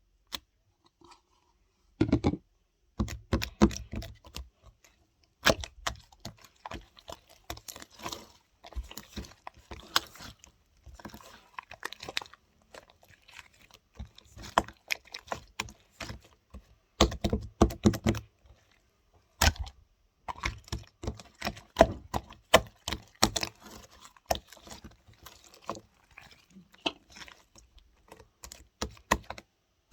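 Slime being squeezed and poked by hand, making a dense, irregular run of sharp clicks and crackles that starts about two seconds in.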